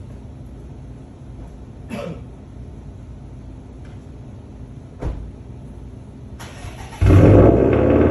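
Subaru WRX STI's turbocharged 2.5-litre flat-four cranked briefly near the end and catching on a cold start, then running loud. Before it, two faint knocks.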